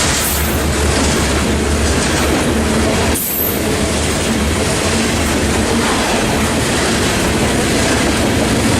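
CN coal train's hopper cars rolling past at close range, steel wheels clattering steadily on the rails.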